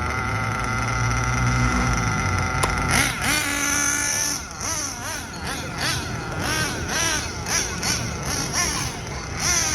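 Nitro RC buggy's small two-stroke glow engine running under break-in, steady for the first few seconds, then rising and falling in pitch about twice a second as it is throttled up and down.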